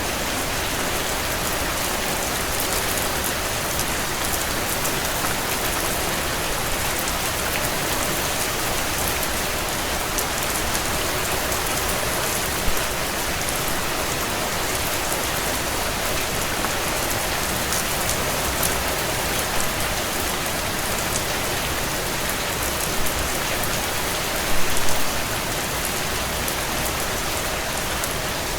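Heavy rain drumming steadily on a tin roof, a dense hiss of drops with a few louder individual drop hits near the end.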